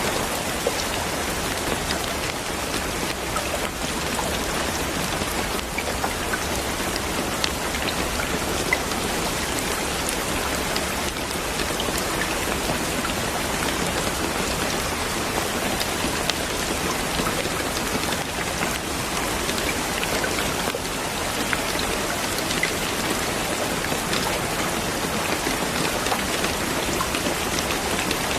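Steady rain falling, an even hiss with scattered small ticks of individual drops.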